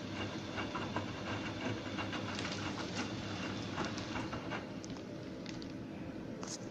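Bosch Serie 2 WAB282ECO front-loading washing machine running: a steady low hum with many small irregular clicks from the turning drum.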